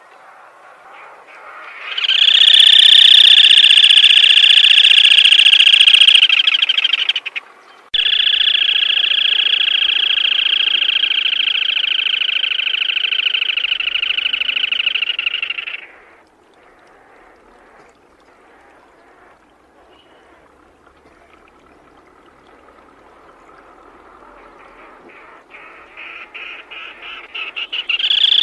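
Black-tailed crake calling: long, rapid, rasping trills. One trill lasts about five seconds, then after a short break another runs for about eight seconds. After a quieter gap, a new trill builds up near the end, its pulses coming faster and louder.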